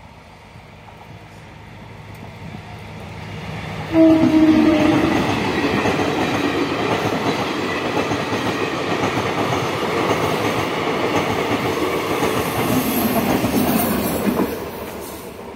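Indian Railways local passenger train approaching and passing close by. Its rumble builds, a short horn blast comes about four seconds in, and then the wheels clatter loudly over the rails for about ten seconds before the sound fades near the end.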